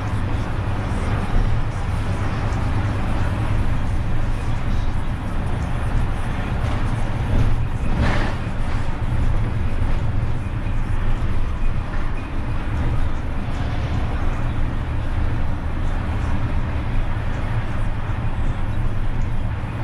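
Renault truck's diesel engine running steadily while driving, with road noise. There is a short burst of hiss about eight seconds in.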